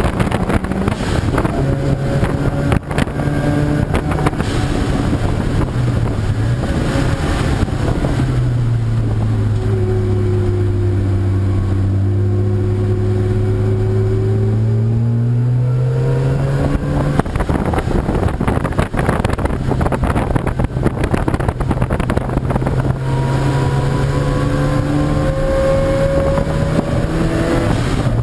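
Racing car engines running on the circuit during qualifying. Around the middle, one engine's pitch drops as it slows and then climbs again as it accelerates away. Wind buffets the microphone throughout.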